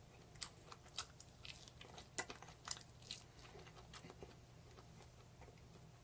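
Faint chewing of roast chicken: a scatter of soft mouth clicks that thins out near the end.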